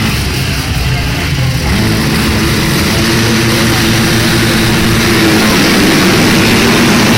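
Motocross bikes' engines running hard on the track; about two seconds in, one bike's steady high engine note comes in and grows louder as it nears.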